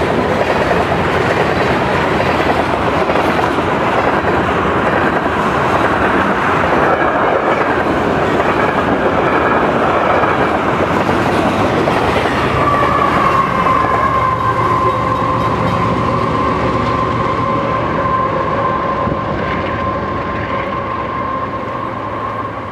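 Long, heavy freight train of loaded oil tank cars rolling fast over loose rail sections whose temporary welds have not held: a continuous rush of steel wheels on rail with clickety-clack. About halfway a rear diesel locomotive passes, adding a steady whine, and the whole sound fades as the train moves away.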